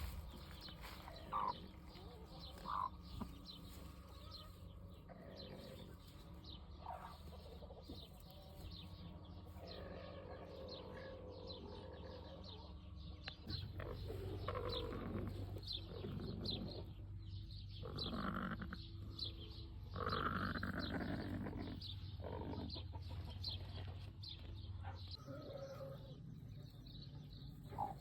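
Farmyard chickens clucking and calling, with many small high chirps throughout. The calls grow louder and busier about halfway through.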